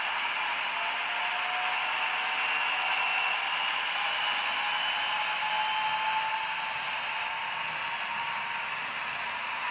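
RailPro sound decoder in an HO-scale SD40T-2 model locomotive, playing a diesel engine sound through dual sugar-cube speakers under a simulated heavy load. It runs steadily with a hissy, whining tone that slowly rises in pitch.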